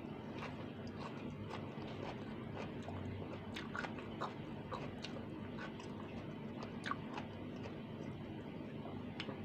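A person chewing fried fish and water spinach eaten by hand, with irregular small mouth clicks over a steady low hum.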